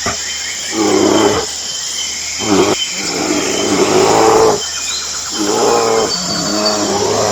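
Bear growling in four drawn-out calls, the third and longest lasting about a second and a half, over a steady outdoor ambience of hiss and faint bird chirps.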